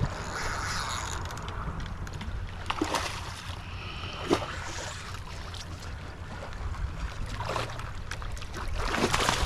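Wind buffeting the microphone over the wash of water at the shoreline, with a few brief knocks.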